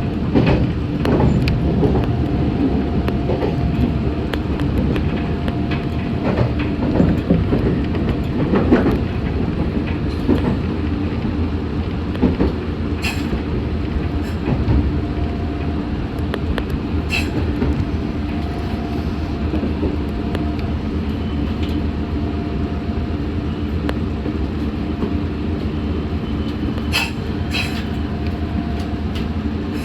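Meitetsu 6500 series electric train running, heard from inside the car: a steady rumble of wheels on rail under a steady hum, with a few sharp clicks.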